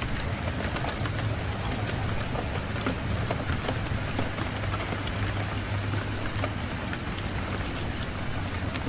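Wood fire in a fireplace crackling, with scattered sharp pops over a steady hiss and a low rumble of wind.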